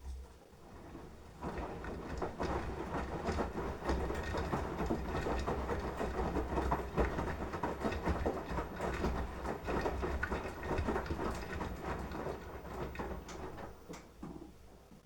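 Beko washing machine turning its drum in a wash tumble: a low motor hum with laundry and water sloshing and clattering inside the drum. It builds up about a second in and dies away near the end as the drum stops turning.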